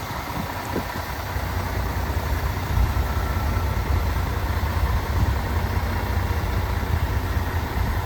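The MAN TGX 26.470's 470 hp Euro 6 six-cylinder diesel engine idling steadily, a constant low-pitched drone.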